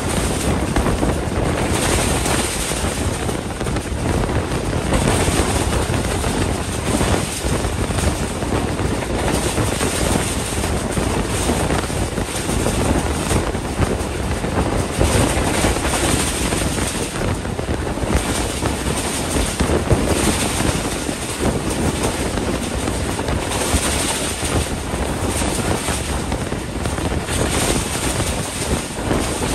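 Steady rush of wind and the running noise of a passenger train at speed, heard from outside the coach side with wind buffeting the microphone.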